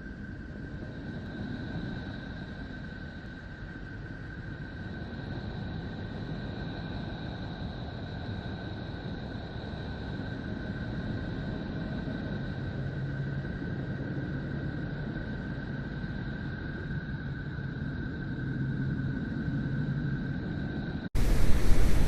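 Steady low rumbling hiss with two faint, unchanging high tones, an ambient 'planet sound' track of the kind made from spacecraft data. About 21 seconds in it cuts off abruptly into a much louder, fuller track.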